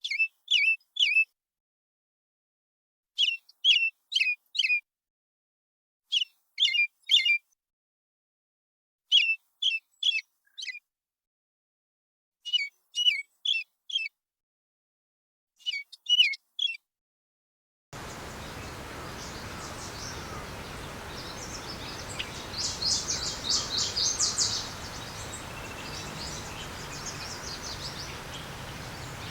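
Bird chirping: short groups of three or four quick high chirps repeating about every three seconds over dead silence. About two-thirds of the way through, a steady background hiss comes in, with a burst of rapid twittering a few seconds later.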